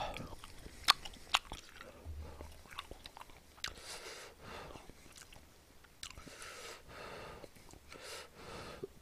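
A person chewing a mouthful of grilled spicy chicken bulgogi close to the microphone, with wet mouth sounds. There are a couple of sharp clicks about a second in.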